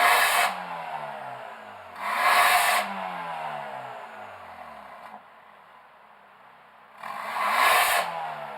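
BMW 420i's turbocharged four-cylinder engine being revved through an iPE Innotech valved performance exhaust: three sharp throttle blips, at the start, about two seconds in and about seven seconds in, each followed by the exhaust note falling steadily as the revs drop back.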